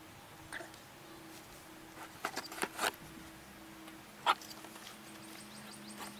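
A few short bird chirps over a faint steady hum: a cluster of three a little over two seconds in and a louder single chirp a little past four seconds.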